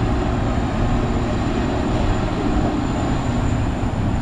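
Multi-car tour tram running along, a steady low rumble heard from on board.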